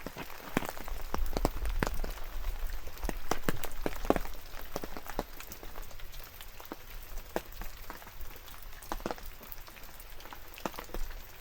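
Rain falling, with individual drops tapping close by at irregular moments over a soft hiss. A low rumble sits underneath during the first few seconds.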